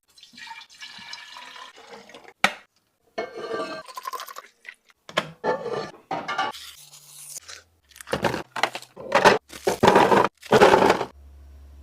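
Restocking sounds: liquid pouring, a sharp click, then a run of knocks and rattles as plastic containers and packaged food are handled and set down, loudest near the end. A low steady hum takes over in the last moment.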